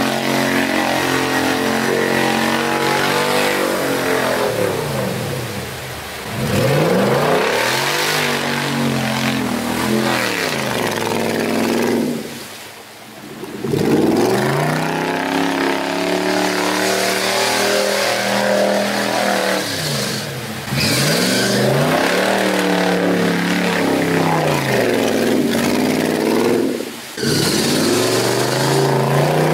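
Jeep Wrangler's engine revving hard while it is stuck in deep mud with its wheels spinning. The engine note climbs and falls in repeated surges, easing off briefly four times before rising again.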